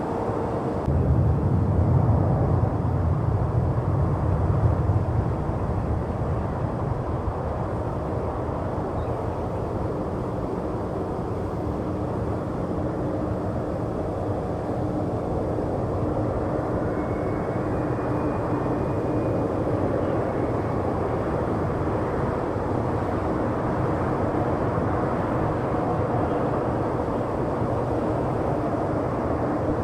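Airbus A330 jet engines, a steady rushing drone with a louder low rumble in the first few seconds.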